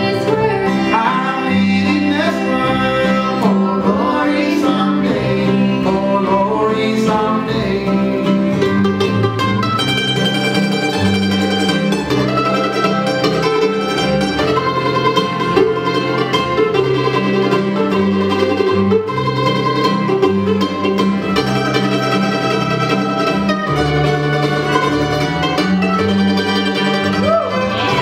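Live old-time string band of fiddle, mandolin, guitar and upright bass playing a gospel waltz, mostly as an instrumental passage between sung verses.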